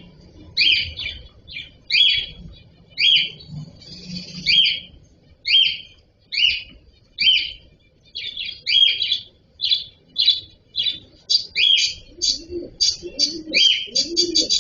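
Cockatiels chirping, short high calls repeated about once a second that come faster, several a second, near the end. Lower calls join underneath in the last few seconds.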